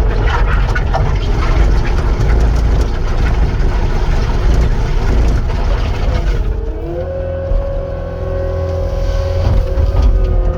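Cat 259 skid steer's diesel engine running under work, with heavy clatter and scraping from the machine for the first several seconds. About two-thirds of the way through, the clatter drops away and a steady whine rises slightly in pitch and holds.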